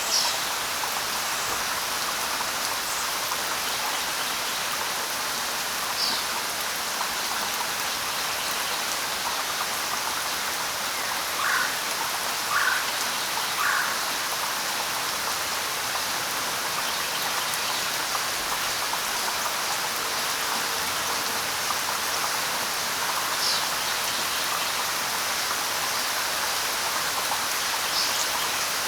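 Steady light rain hissing down, with a few brief high bird chirps scattered through it and a run of three lower bird calls about halfway through.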